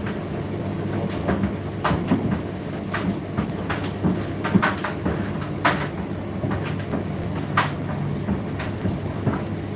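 Indesit IDC8T3 condenser tumble dryer running, its drum and motor giving a steady hum, with irregular knocks and clicks as the load tumbles in the drum.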